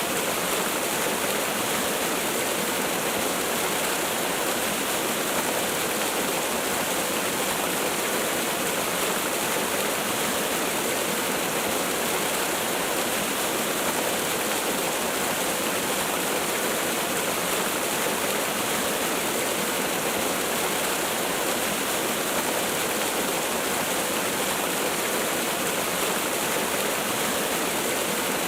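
Waterfall: falling water in a steady, even rush with no breaks.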